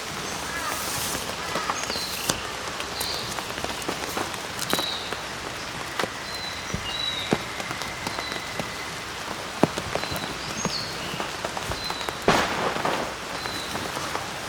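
Rain pattering, with scattered drop clicks, and short high chirps now and then.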